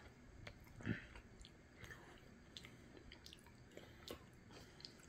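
Faint chewing of a mouthful of burrito close to the microphone, with small wet mouth clicks scattered throughout and a slightly louder one about a second in.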